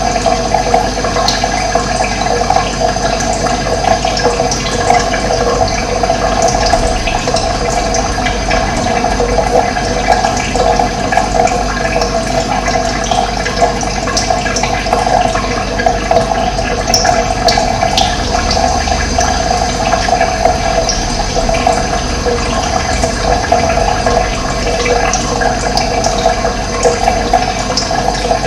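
Running water flowing in a steady rush, with a few brief high bird calls over it.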